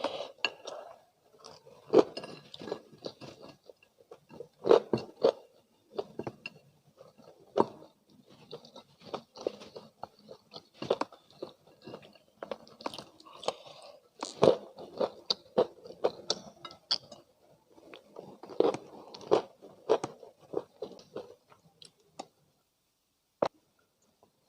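Close-miked chewing with crisp crunches and wet mouth clicks, from eating crispy spicy fried chicken with white rice. The chewing stops about two seconds before the end, with one sharp click after.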